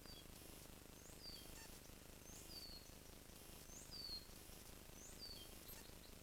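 Faint bird call: a short, high note sliding downward, repeated about every 1.3 seconds, five times, over a steady low hiss.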